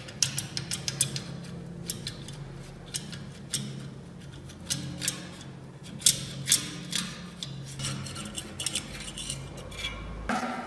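Irregular light metal clicks and taps, as of small steel parts being handled and set down on a hard surface, over a faint steady low hum.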